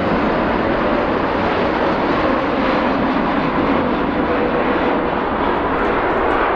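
Jet engine noise from a Boeing 747-8's four GEnx turbofans as it flies over low: a loud, steady rushing roar with faint tones that drift slowly down in pitch.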